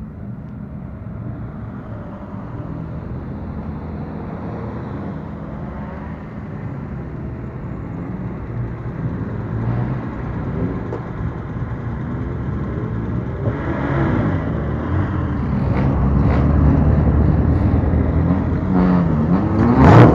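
Engine and exhaust of a bosozoku-style custom car rumbling as it rolls out, growing steadily louder, with a rev that rises in pitch near the end.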